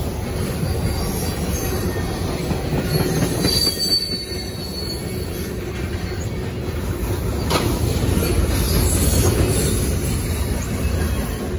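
Freight train's boxcars and tank cars rolling past at close range, a steady rumble of steel wheels on rail. A faint high wheel squeal comes in around three to four seconds in, and one sharp clank about seven and a half seconds in.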